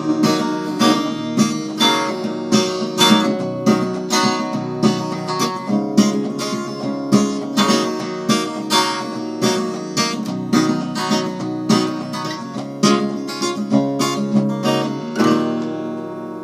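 Acoustic guitar strummed in a steady rhythm as the instrumental ending of a song, finishing on a chord left to ring out near the end.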